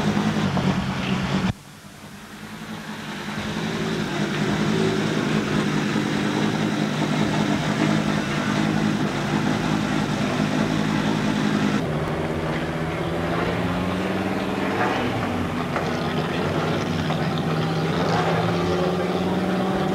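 Rally car engines idling steadily at an even pitch. The sound breaks off abruptly about a second and a half in, fades back up, and changes again near twelve seconds in.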